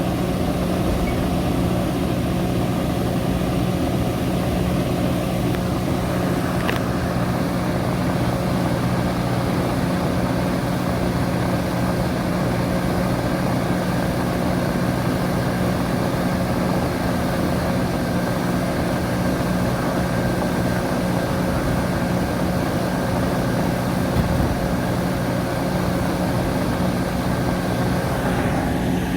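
Metra commuter train's diesel locomotive idling at a standstill, a steady unchanging engine hum.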